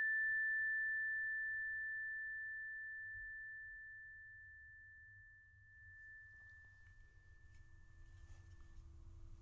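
A struck tuning fork ringing with one high, pure tone that slowly fades away. A faint lower tone comes in near the end.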